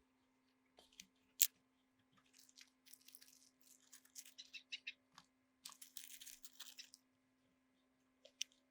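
A sharp click, then a few seconds of scratchy scraping and rustling from hand work on small objects, with another click near the end, over a steady low electrical hum.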